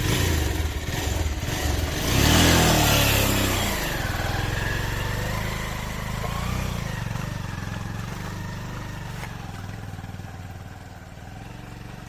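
Motorcycle engine revving hard a couple of seconds in as it pulls away, then running on and slowly fading as it rides off.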